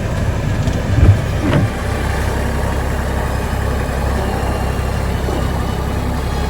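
Vehicle engine running steadily with a low rumble, with a sharp knock about a second in and a lighter one just after.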